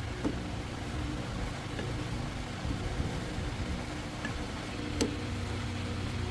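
An engine idling steadily with a low hum, with a faint click just after the start and a sharper metallic click about five seconds in.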